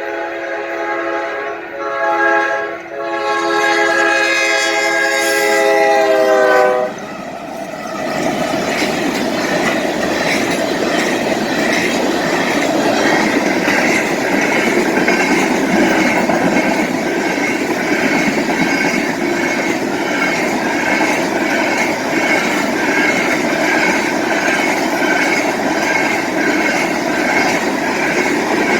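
Freight locomotive air horn blowing a multi-note chord for the grade crossing, with two brief breaks. Its pitch drops as the locomotive passes, and it cuts off about seven seconds in. Then the train's cars roll by at speed, with rhythmic wheel clatter and a steady high wheel squeal.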